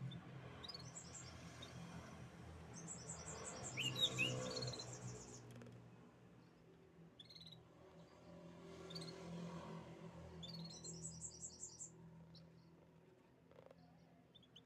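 Canaries singing: rapid high trills in two bursts, about three seconds in and again near eleven seconds, with short chirps scattered between, over a faint low hum.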